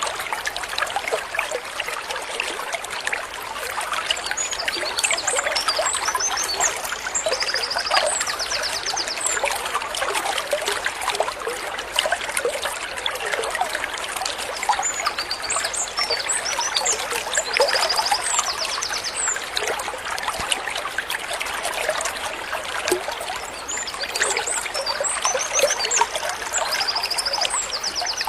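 Water trickling steadily in a stream, with small birds singing over it: scattered high chirps and whistles, and a fast pulsed trill that comes back every several seconds.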